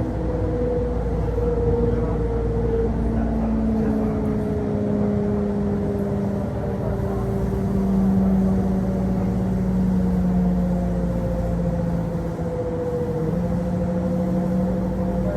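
Running noise of a Kintetsu Osaka Line local electric train heard from inside the car: a steady rumble with a whine of a few tones from the traction motors and gears that sink slowly in pitch as the train slows, lifting slightly near the end.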